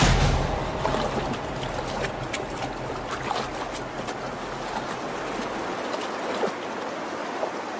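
Stream water rushing over a shallow creek bed, with many small sharp splashes through it.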